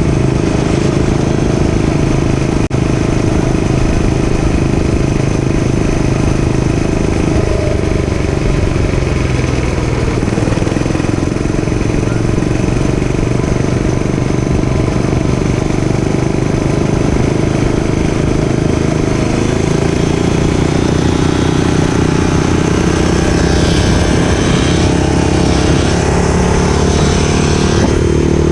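Dirt bike engine running continuously while riding, its pitch shifting a little with the throttle and changing more in the last few seconds.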